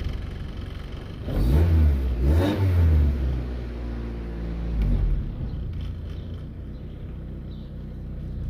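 Honda D16 four-cylinder engine, cold and struggling to idle, revved in two quick blips about a second in, then held up briefly before dropping back near the five-second mark to a low idle. The owner fears it will stall.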